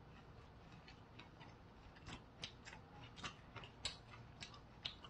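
Near silence broken by faint, irregular little clicks, about a dozen of them from about two seconds in: wet mouth clicks of chewing a rice-paper spring roll.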